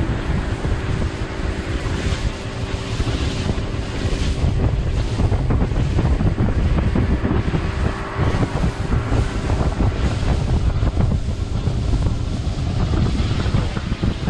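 Wind buffeting the microphone on a moving boat, over the steady running of a Yamaha 225 V6 outboard and the rush of water along the hull.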